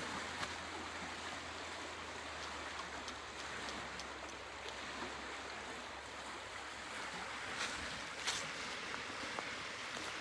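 Steady outdoor rushing noise, with a few faint clicks or crunches about three quarters of the way through.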